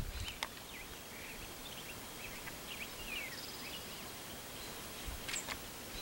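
Birds calling faintly: scattered short chirps and downslurred notes, with a brief high trill about three seconds in, over a steady faint outdoor background.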